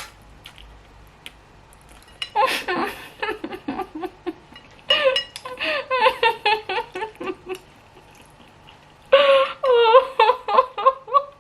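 Excited, high-pitched voices talking and giggling in three bursts, with a short click of tableware at the very start.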